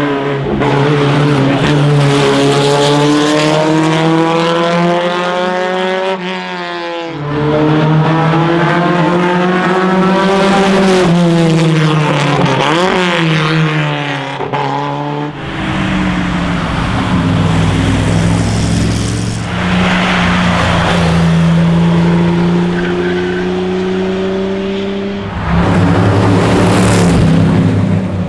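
Classic racing car engines under hard acceleration on a hillclimb. The pitch climbs steeply and drops sharply at each upshift, about 7 and 15 seconds in. A steadier, lower engine note follows, then a louder surge near the end.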